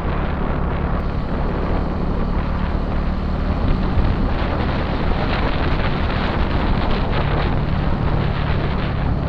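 Motorcycle riding at a steady speed: the engine runs evenly under heavy wind rush on the microphone.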